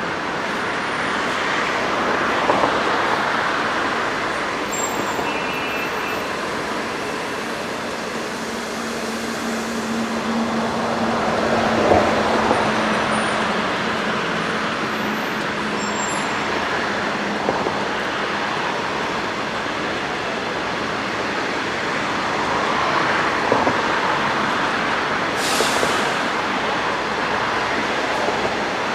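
Train running past on the track, a steady rolling noise that swells and eases slightly, with a short hiss near the end.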